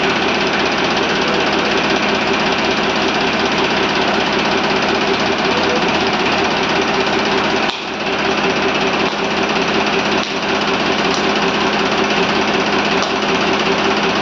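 Diesel engine of a Powertrac 439 tractor running steadily with a loud clatter, dipping briefly twice in the middle.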